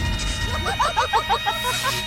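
Cartoon sound effect: a rapid run of short, squeaky rising chirps, about eight a second, after a low rumble dies away at the start.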